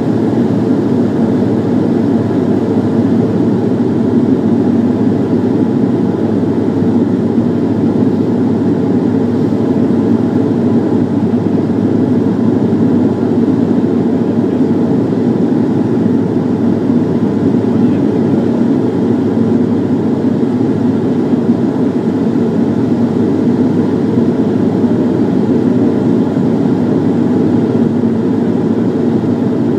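Steady drone of a Bombardier Dash 8's turboprop engines and propellers heard inside the passenger cabin, a deep even noise with a faint steady hum.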